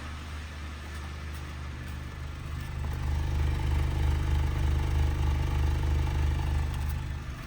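Honda Fit's 1.5-litre four-cylinder engine running after a valve adjustment; its revs rise about three seconds in, hold, and drop back near the end. A knock persists, which the owner suspects could be rod knock.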